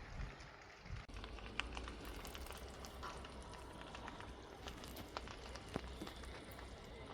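Dry grass fire burning: a steady hiss with scattered crackles and pops, over a low rumble.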